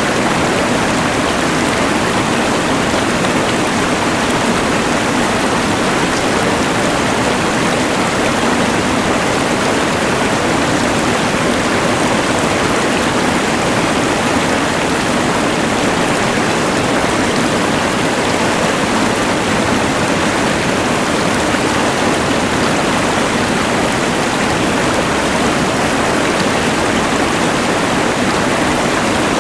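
Rushing mountain river blended with the steady hiss of a LectroFan white noise machine, an even, unchanging wash of water noise.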